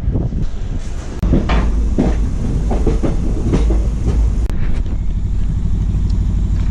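Passenger train running on the track: a loud, steady low rumble, with a run of sharp knocks in the first few seconds.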